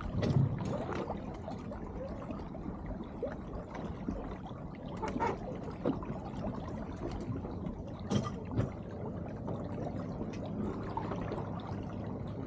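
Water splashing and trickling along the hull of a small sailboat under way, with a few knocks from deck gear, the loudest about half a second in and around eight seconds.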